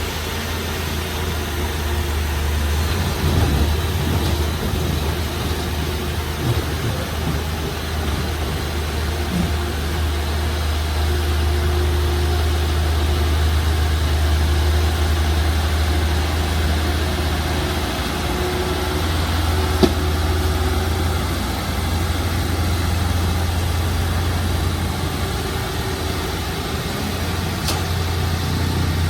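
Heavy diesel earthmoving machine engine running steadily at a low, even pitch, with scattered small knocks and one sharp click about two-thirds of the way through.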